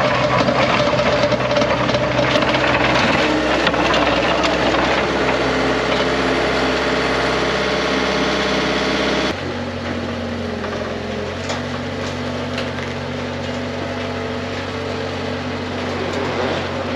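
An engine running steadily at a constant speed; about nine seconds in, the sound switches abruptly to a quieter, lower engine note.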